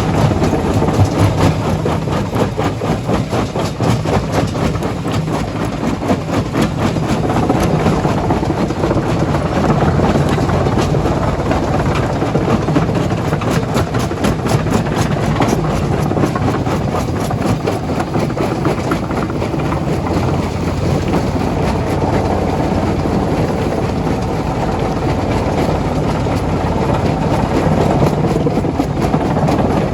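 Heavy quarry machinery running steadily: a low engine drone under a dense, continuous clatter.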